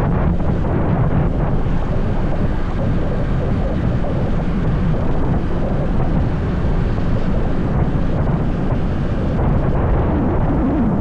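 Motorbike underway: a steady engine drone mixed with wind buffeting the microphone, even throughout with no breaks.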